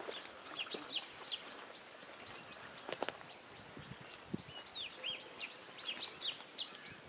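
Small birds chirping in scrub: short, quick, falling notes in two scattered clusters, with a single sharp knock about three seconds in.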